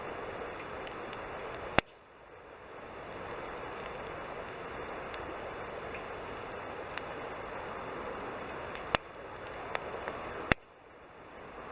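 Wood campfire burning with a steady hiss and scattered small crackles, broken by three sharp pops: about two seconds in, about nine seconds in, and near the end.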